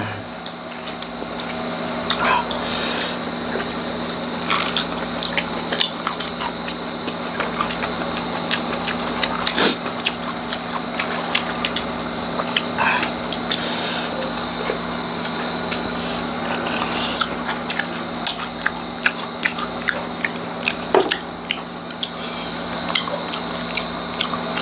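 Crunching and chewing of crispy deep-fried chicharong bulaklak (pork mesentery crackling), close to lapel microphones, in many irregular crackly bites. A steady low hum runs underneath.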